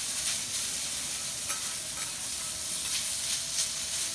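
Bean sprouts and greens sizzling on a steel teppanyaki griddle while two metal spatulas toss and scrape them, with scattered light clicks of the blades on the plate.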